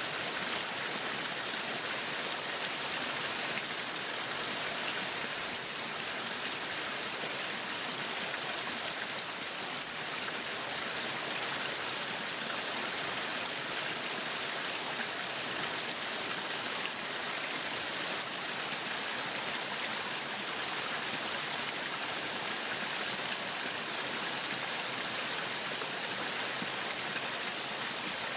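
Meat sizzling on a yakiniku grill, a steady hiss that neither builds nor fades.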